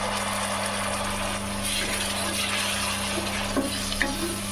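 Spiced onion-tomato masala sizzling in a steel pot over a steady low hum. A stronger hiss rises about a second and a half in as a little water goes into the hot masala. Near the end a wooden spatula knocks twice against the pot as the stirring begins.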